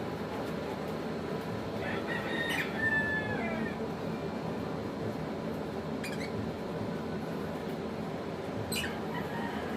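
A bird calling for about a second and a half, starting about two seconds in, then short sharp chirps twice near the end, over a steady background hum.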